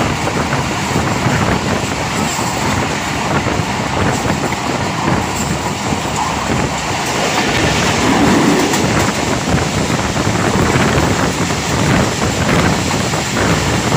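Passenger train coach running at speed, heard from an open window: a continuous rumble and rattle of the wheels on the rails with repeated clicks over the rail joints, swelling slightly partway through.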